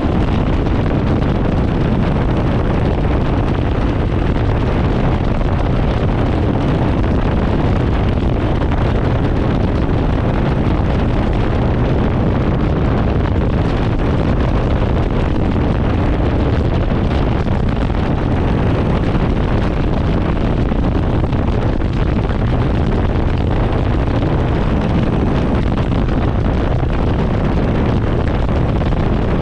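Harley-Davidson Sportster Forty-Eight's air-cooled V-twin running on the move through a TBR 2-into-1 exhaust, steady and loud, with heavy wind noise on the microphone.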